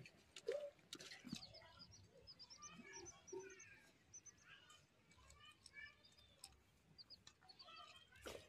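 Faint birds chirping in quick series of short, high chirps, with a few soft knocks.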